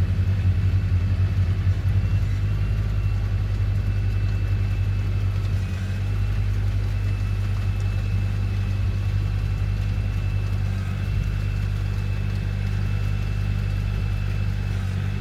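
LS MT235 compact tractor's diesel engine running steadily, with a thin steady high whine over the low engine hum.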